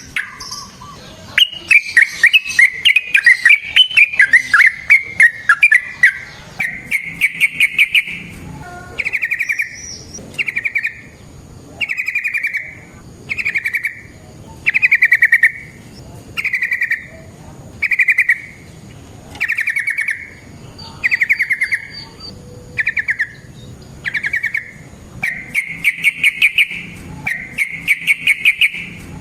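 Yellow-vented bulbul (trucukan) singing: a rapid, falling chatter at first, then short bubbling phrases repeated about once a second, and longer rolling phrases near the end.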